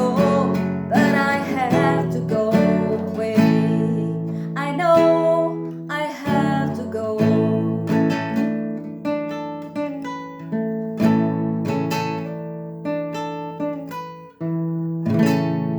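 Acoustic guitar strumming chords, with the notes ringing between strokes. Near the end a final chord is struck and left ringing.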